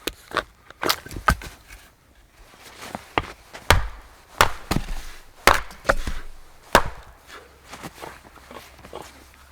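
Axe blows chopping into wood: an irregular series of sharp strikes, about a dozen, with the last few fainter.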